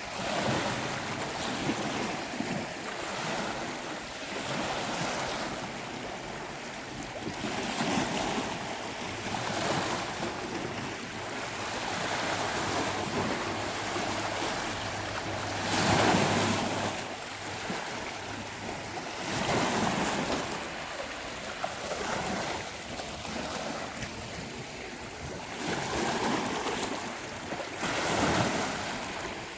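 Sea waves breaking on a beach: a continuous wash of surf that swells and falls every few seconds, the loudest wave about halfway through.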